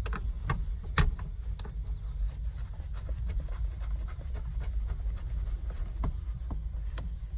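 Scattered light clicks and knocks of a car seat being handled and fitted into its mounts, with one sharper knock about a second in, over a steady low rumble.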